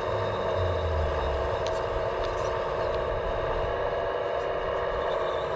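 Electric motors and hydraulic pump of radio-controlled scale construction machines running steadily with a whine, with a brief low rumble in the first second or so.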